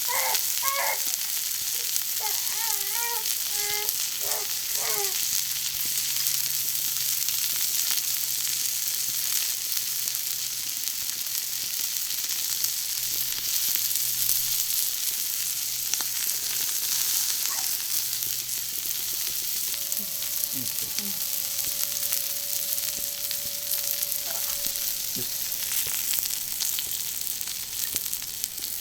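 Food sizzling steadily on a thick iron griddle plate over a charcoal grill, a continuous frying hiss with scattered small pops and crackles.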